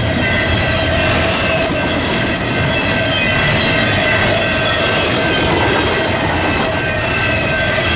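BNSF freight train cars rolling past steadily, wheels clattering over the rail joints, with steady high squealing tones from the wheels.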